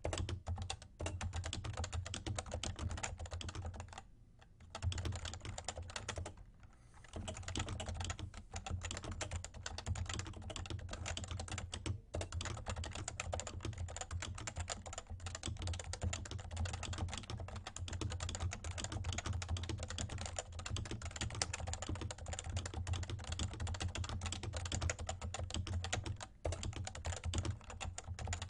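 Fast, continuous typing on a Realforce R2 tenkeyless Topre keyboard with light 30 g electro-capacitive switches, a dense stream of soft key strokes, with two brief pauses about four and six and a half seconds in.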